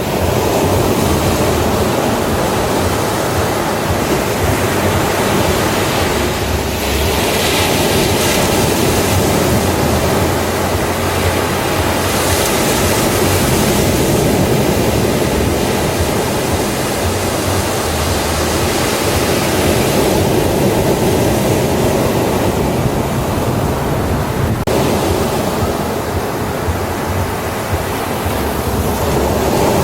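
Ocean waves breaking on a beach: a continuous loud wash of surf that swells and eases, with brighter breaks about seven and twelve seconds in.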